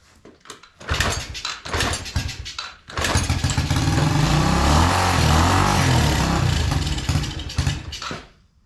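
Yamaha TTR90's small four-stroke single-cylinder engine being cranked over, catching about three seconds in and running loudly for about five seconds before it stops.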